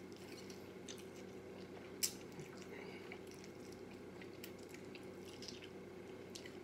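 Chewing and biting on fried chicken close to the microphone: wet mouth clicks and smacks scattered through, with one sharper click about two seconds in, over a steady low hum.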